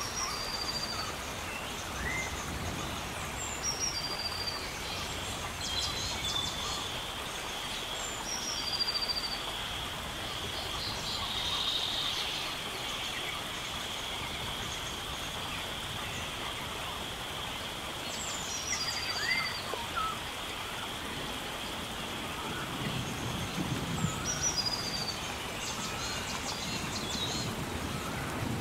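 Nature soundscape of steady rain hiss with birds calling: one bird repeats a short, high, descending call every few seconds, and a steady high whine runs through the middle. A low rumble comes in near the end.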